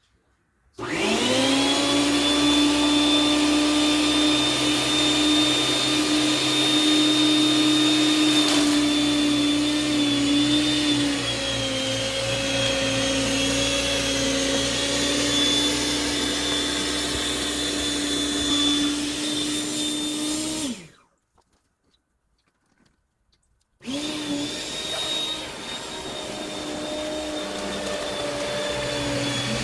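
Electric snowblower's motor spinning up with a quick rising whine and running steadily. It is switched off about 21 seconds in, then started again a few seconds later with the same rising whine.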